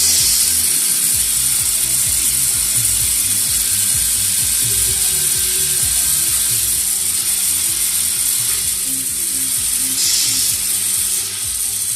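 1/14-scale RC model V8 engine running, its gears and moving parts making a steady, fast mechanical clatter.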